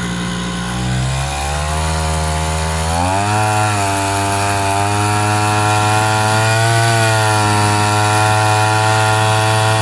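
Small two-stroke brush-cutter engine with a 40 mm bore, driving a long-tail propeller on a small skiff. It is revved up in two steps, about one and three seconds in, then held steady at high revs under way.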